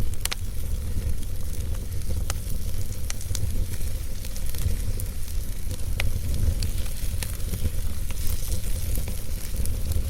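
Wood fire burning in a fireplace: a steady low rumble and hiss of the flames with irregular sharp crackles and pops from the burning logs, the sharpest just after the start and about six seconds in.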